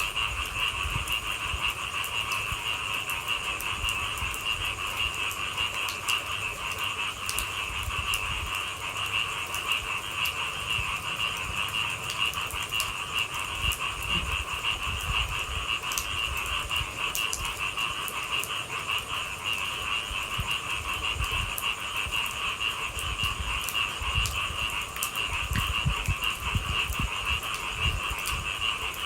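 A steady night chorus of many frogs calling at once, with scattered light raindrop ticks and a low rumble underneath.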